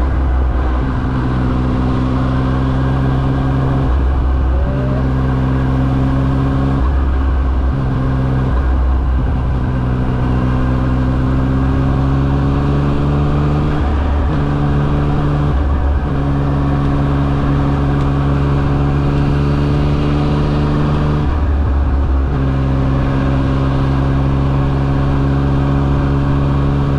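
Yamaha XSR900's inline three-cylinder engine running under way. The note holds steady for stretches, then breaks off briefly several times and comes back at a slightly different pitch.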